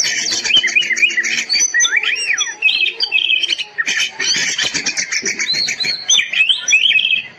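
Oriental magpie-robin (kacer) singing a fast, varied, unbroken song of whistles, slurred notes, chirps and rapid trills. This is the excited 'gacor' song used as a masteran training recording for caged birds.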